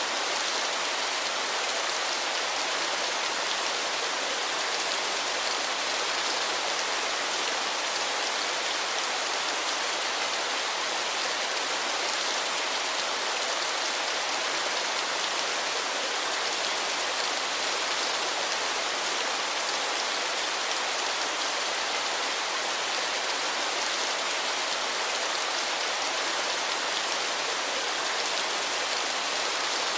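Waterfall: water pouring and splashing in a steady, even hiss with little deep rumble, unchanging throughout.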